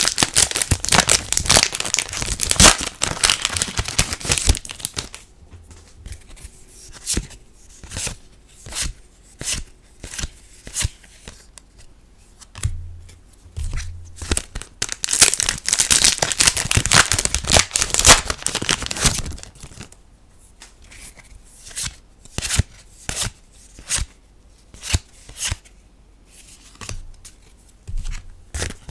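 Foil trading-card booster packs crinkling as they are torn open, twice, each followed by a run of single sharp card snaps, about one a second, as the cards are gone through one by one.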